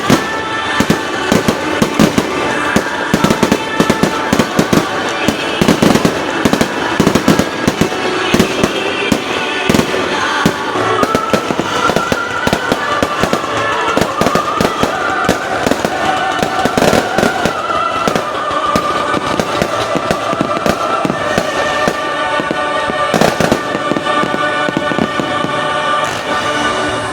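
Aerial fireworks bursting in rapid succession, a dense run of bangs and crackles, with music playing underneath.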